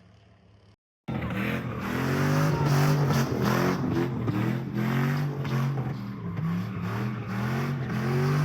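Car engine revving hard in a burnout, its pitch climbing and dropping again and again, over the hiss of spinning tyres. It starts abruptly about a second in, after a near-silent moment.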